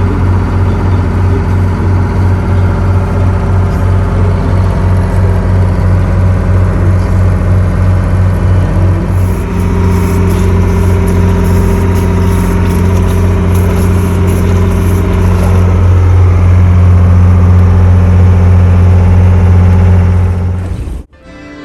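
Ford Sabb marine diesel engine running with a steady chugging beat. About nine seconds in it turns into a smoother, continuous drone as the engine speeds up. It stops abruptly near the end.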